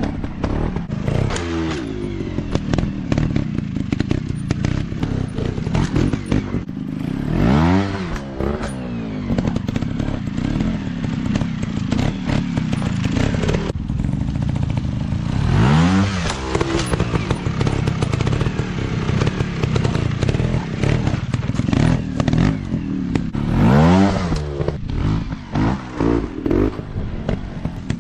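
150 cc dirt bike engine running and revved hard three times, the pitch climbing about 7, 16 and 24 seconds in, with clattering and knocks throughout.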